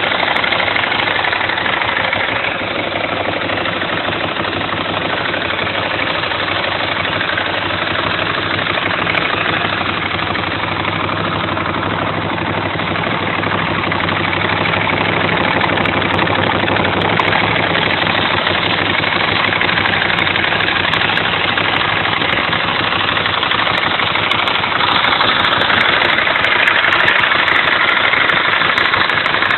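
Ducati Streetfighter S's 1099 cc Testastretta L-twin engine idling steadily. It grows a little louder in the last few seconds.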